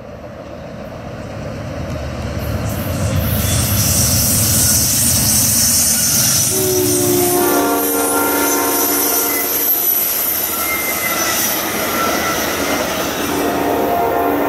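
Amtrak P42DC diesel locomotive passing at speed with its passenger cars. The rushing wheel and rail noise grows over the first few seconds and then holds steady as the cars go by. About halfway through, the multi-note air horn sounds a chord that drops in pitch as the locomotive passes.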